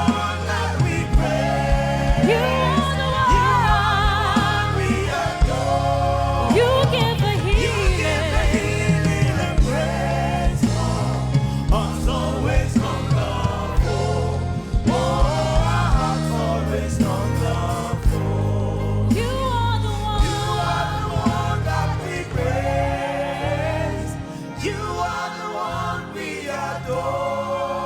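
Live gospel worship music: a band with bass and drums under singers whose voices slide and bend through the lines, getting a little quieter near the end.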